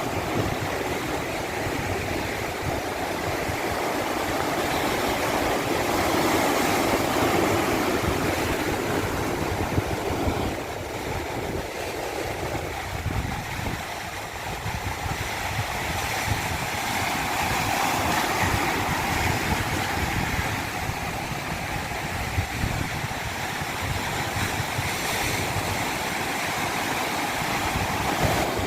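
Continuous rushing water with a low rumble underneath, easing and swelling slowly over many seconds.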